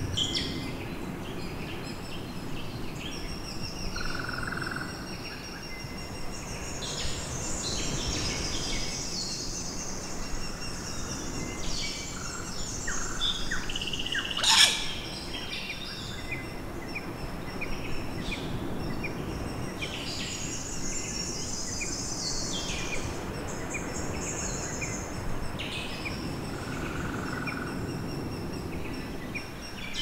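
Outdoor birdsong: several birds calling and chirping over a low, steady background hiss of wind and ambient noise. About halfway through, one sharp, louder sound stands out above the chorus.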